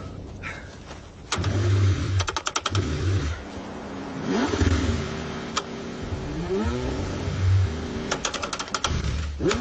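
A car engine cranked again and again in freezing cold, struggling to start. Repeated low pulses are broken by rising whines and two quick runs of clicks.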